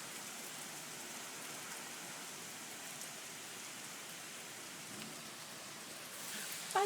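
Heavy rain pouring down in a thunderstorm: a steady, even hiss of rain.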